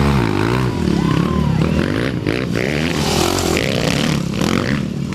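Off-road racing motorcycle engine revving, its pitch rising and falling several times, with a rush of noise about three seconds in.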